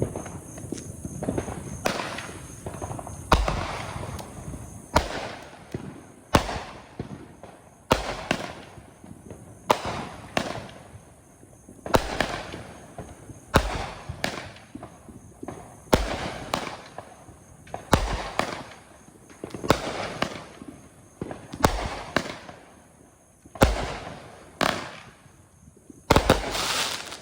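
A 200-gram consumer firework cake (Sky King Fanatic Series, 'Gators') firing shot after shot. Each shot is a sharp report that fades out over about a second, coming roughly every one and a half to two seconds, with a quicker pair near the end.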